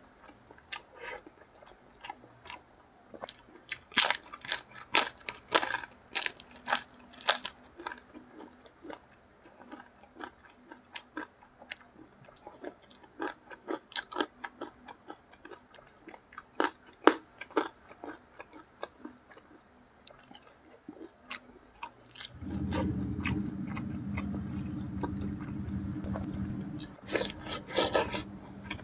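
Close-miked eating by hand of catfish in spicy sauce with rice: crunchy bites and wet chewing, the loudest crunches about four to seven seconds in and again just before the end. A steady low hum runs for about four seconds near the end.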